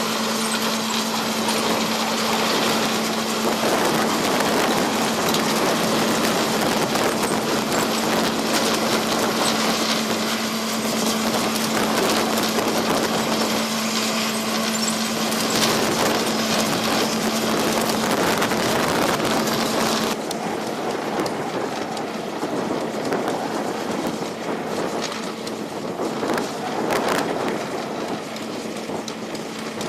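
Vermeer T655 Commander 3 trencher running under load as its digging attachment cuts through the ground: a dense, steady grinding and rattling over a constant engine hum. About two-thirds of the way through the hum drops out and the noise turns a little quieter and more clattery.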